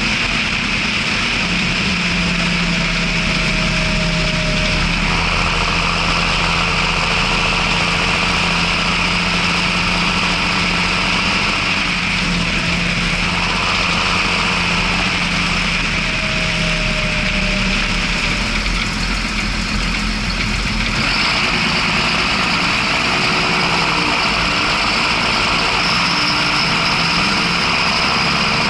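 John Deere 6620 tractor's six-cylinder turbo-diesel engine running steadily under a constant high hiss, its note shifting about 5, 13 and 21 seconds in.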